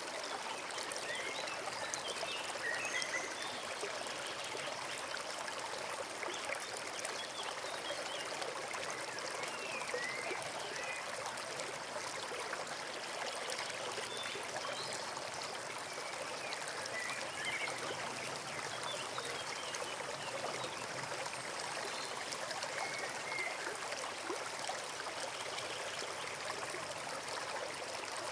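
Forest stream flowing steadily over stones, with faint short bird chirps scattered throughout.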